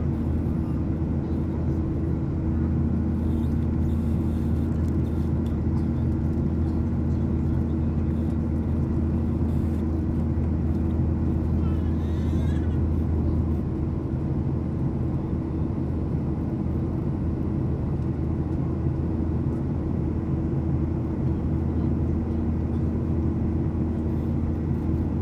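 Steady cabin noise of a Boeing 737-800 in flight: a constant airflow rush with the even hum of its CFM56-7B turbofan engines, whose deepest tone eases slightly about halfway through.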